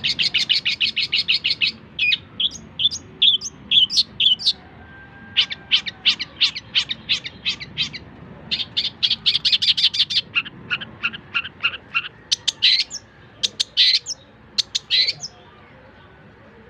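Long-tailed shrike (cendet) singing a varied song: a fast run of high chirps, then assorted separate notes and trills, and three louder calls near the end before it stops.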